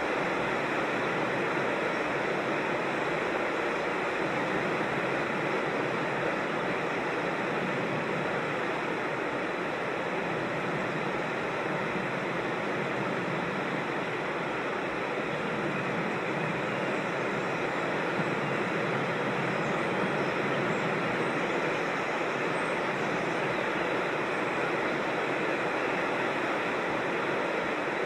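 Rushing creek water, a steady even rush with no change in level.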